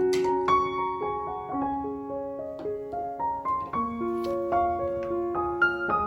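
Background music: a soft piano playing a slow melody of held notes, with a brief click near the start.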